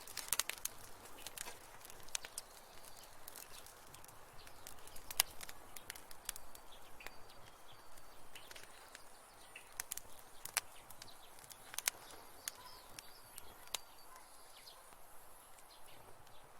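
Wood fire crackling, with irregular sharp pops and snaps over a soft hiss.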